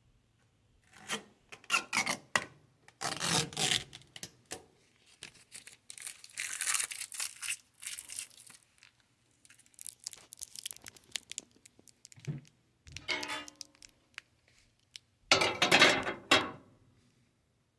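Plastic protective film and stickers being peeled and pulled off a new microwave's surfaces. It rustles, crinkles and tears in irregular bursts with short pauses between them.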